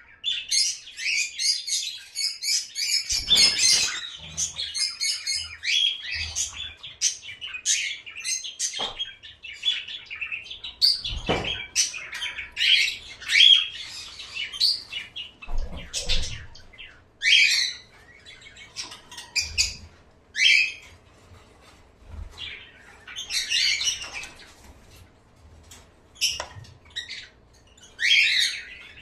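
Small caged birds chirping and chattering, busiest in the first few seconds and then in scattered short calls, with a few low thumps among them.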